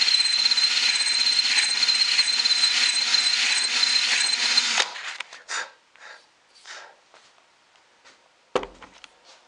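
Electric drill spinning a 1/4-inch wooden dowel against folded sandpaper, a steady high motor whine with sanding hiss, to slim the dowel for a snug pivot fit. The drill cuts off suddenly about five seconds in, followed by a few light handling clicks and one sharp knock near the end.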